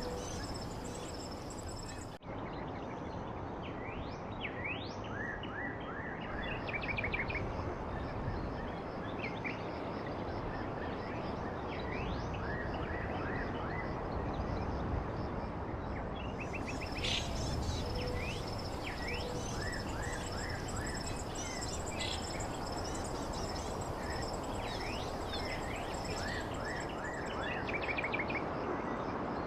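Small birds chirping: many short, quick falling chirps, often in rapid runs, over a steady background of outdoor noise. A thin, steady high-pitched whine is there at the start and returns about halfway through.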